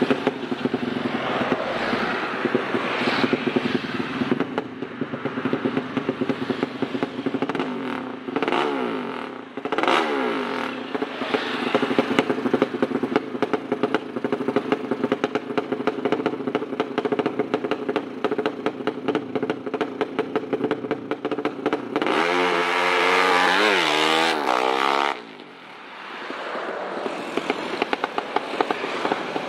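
Tuned racing motorcycle engine running hard, with its revs swinging up and down under the throttle; near the end the revs climb and fall steeply in one strong sweep before a short drop in level.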